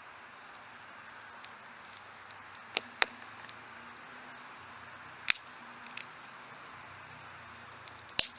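Wood campfire burning with a soft steady hiss and scattered sharp crackling pops, the loudest about three seconds in, about five seconds in, and near the end.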